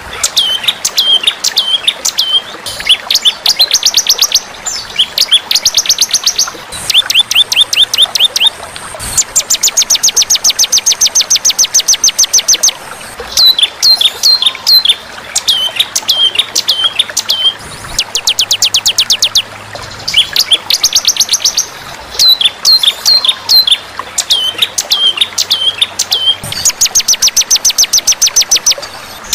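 Songbird song from a masteran training track: phrases of rapid, high chattering trills alternating with runs of four or five short, hooked whistled notes, repeated with short pauses between them.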